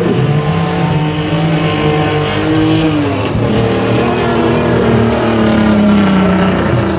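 Several racing truck engines running hard together, their pitches rising and falling as the trucks accelerate and lift off around the track.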